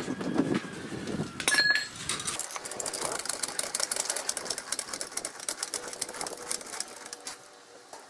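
Car-repair tools being handled: a sharp metal clank about a second and a half in, then several seconds of rapid mechanical clicking that fades near the end.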